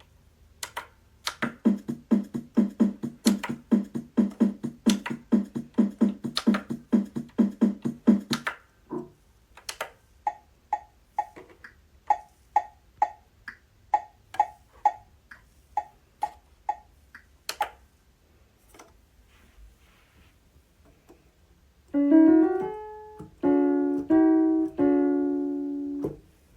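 Donner DDP-60 digital piano being played: a fast run of repeated notes about four a second, then a sparser, higher melody, and near the end a few held chords that ring on.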